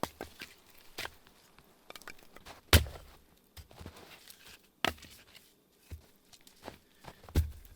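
A series of sharp knocks at irregular intervals, about five louder ones with fainter clicks between; the strongest comes a little under three seconds in.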